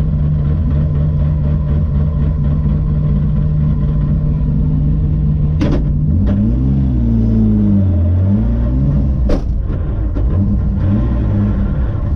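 BMW rally car engine idling steadily, heard from inside the stripped cabin. About halfway through it revs up and down a few times before settling back to idle, with a sharp click just before and another just after the revving.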